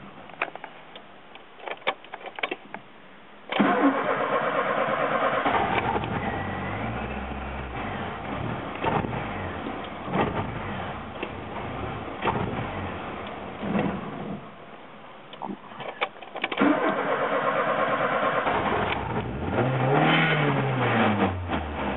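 Ford Escort/Orion 1.6i's fuel-injected four-cylinder being cranked by the starter in two long attempts to start it. On the second attempt, with throttle, the engine fires and revs up to about 4000 rpm, then falls away. This is a hard-starting engine that will not keep running.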